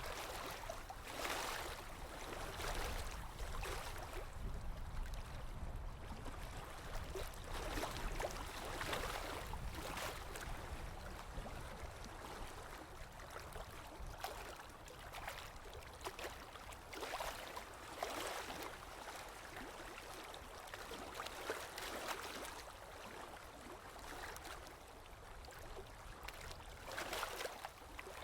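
Small waves lapping, each wash of water swelling and fading every second or two.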